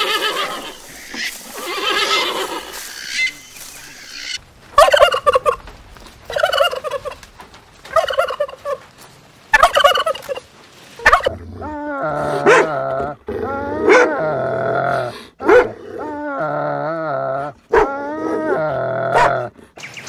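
Helmeted guineafowl calling, a string of harsh cackles about one every second and a half. They are preceded by two bleat-like animal calls and followed by a longer run of lower, wavering calls or tones.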